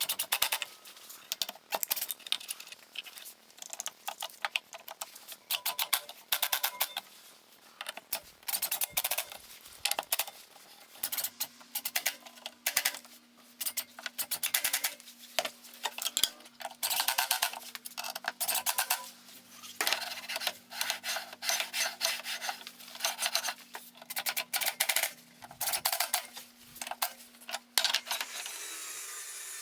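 Rapid, irregular clusters of sharp clicks and taps, like hand tools and wooden parts being handled, with a faint steady low hum through the middle and later part.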